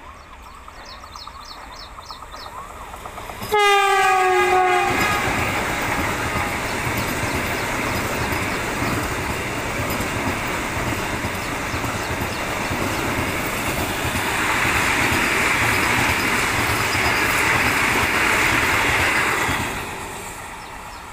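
Vande Bharat Express electric multiple unit sounding one short horn blast about three seconds in, its pitch sagging slightly as it comes close. The steady noise of the train running past follows, louder for a few seconds before dropping away near the end.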